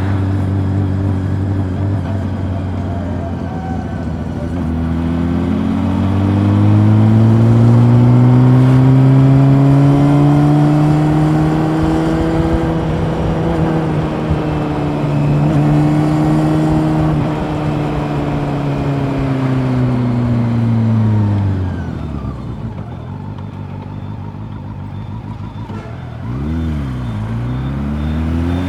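Honda CB400 Super Four's inline-four engine under way. The revs climb steadily from about four seconds in, hold, then fall away as the throttle closes. Near the end the pitch dips sharply and recovers, as at a gear change, before the engine pulls again.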